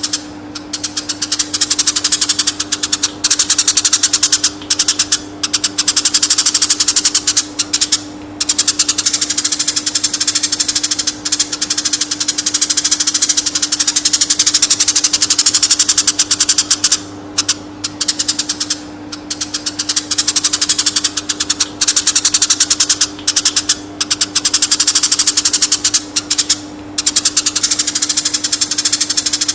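Eurasian tree sparrow chattering, a dense, very fast run of chirps with brief pauses every few seconds, over a steady low hum.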